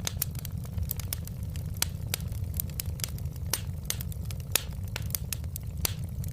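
Wood fire crackling in a fireplace: irregular sharp pops and snaps over a steady low rumble, with a few louder snaps about two and four and a half seconds in.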